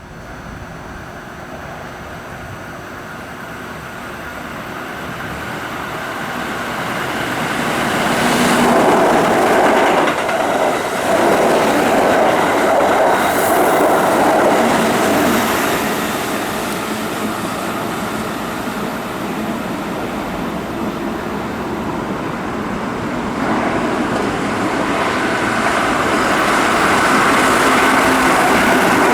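Keihan 3000 series electric train passing through a station at speed, the noise building over about eight seconds and staying loud for several more before easing. Near the end a second train, a Keihan 8000 series, comes up loud.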